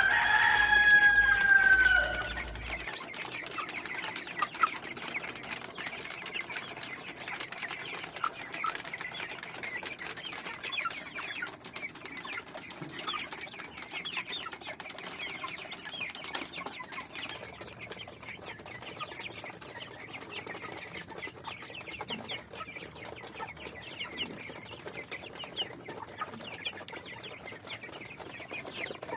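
A rooster crows once at the start, a single call of about two seconds that drops in pitch at its end. Then a flock of chickens keeps up a steady chorus of clucks and short calls.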